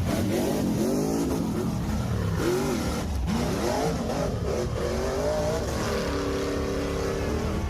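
A vehicle engine revving up and down again and again over a heavy low rumble, then holding a steady pitch near the end.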